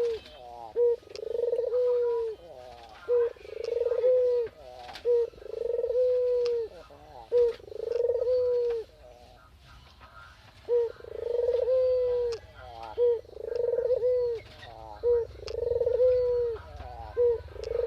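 A bird calling over and over without stopping, each phrase a short note followed by a longer, low held note, repeating about every two seconds with a brief pause about halfway through.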